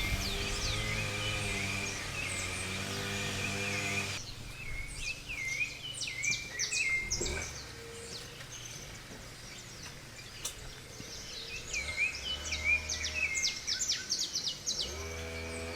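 Forest birds singing: a steady trill in the first few seconds, then bursts of rapid chirps and quick downward-sweeping notes. A low wavering hum sits under the first four seconds and returns near the end.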